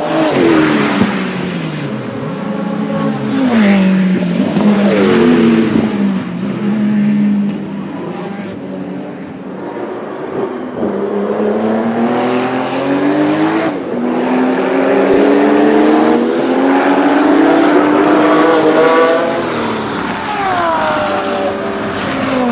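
A performance car engine revving up and down several times, with a few sharp exhaust pops or bangs among the revs.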